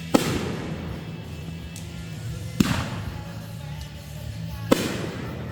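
Three firework shells bursting overhead, one bang roughly every two seconds, each with a short echoing tail. Background music plays under them.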